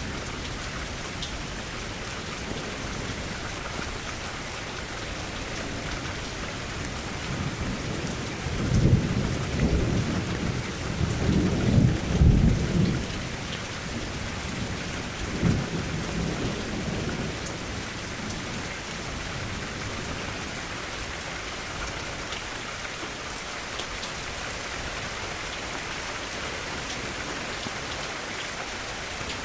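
Steady rain falling, with a low roll of thunder that rumbles for about five seconds from roughly a quarter of the way in, then a shorter rumble a few seconds later.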